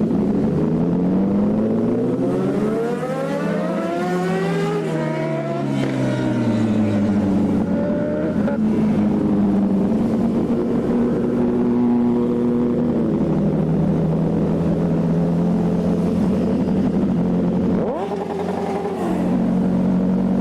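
Motorcycle engine climbing in pitch for about five seconds as it accelerates, then falling as it eases off. It then runs at a steady pitch, with another short rise near the end.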